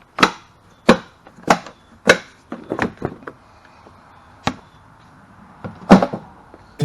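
A series of sharp knocks of tools on metal while a golf cart engine is being taken apart for removal: about one every half second at first, then a few irregular ones, the loudest near the end.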